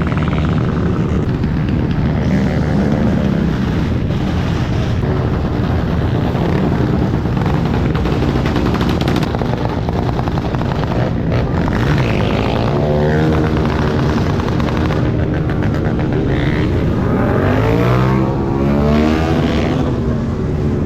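Several motorcycle engines running and revving, their pitch rising and falling in long glides in the middle and again near the end.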